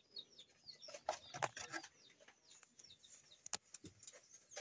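Small birds chirping faintly, many short quick downward chirps, with a few sharp clicks.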